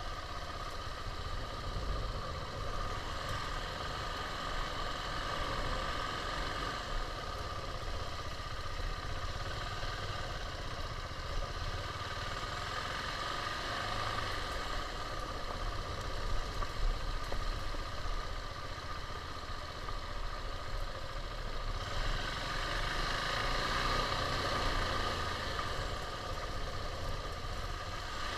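KTM 690's single-cylinder engine running steadily, a little louder and brighter in the last few seconds.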